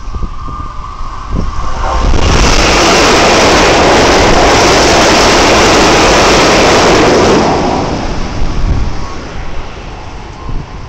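Keikyu 600 series train running through the station at speed on the adjacent track: a loud rush of wheels on rail and air that sets in about two seconds in, holds for about five seconds, then fades away.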